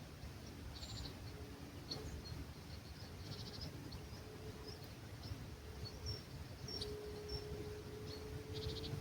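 Dawn birdsong in an olive grove: scattered short, high chirps and a few brief, rapid pulsed trills, over a low rumble of breeze on the microphone. A faint steady hum comes in about two-thirds of the way through.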